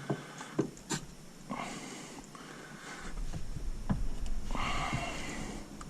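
Handling noise from shifter parts being worked into place in a car interior: a few sharp clicks and knocks in the first second, then two longer breathy, rustling stretches over a low rumble.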